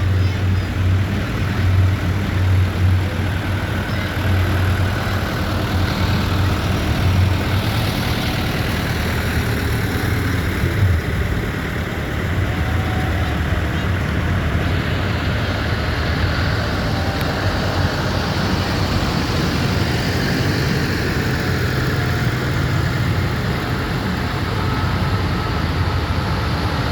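Tractor engines running steadily, a low drone that is strongest in the first ten seconds or so and then eases a little.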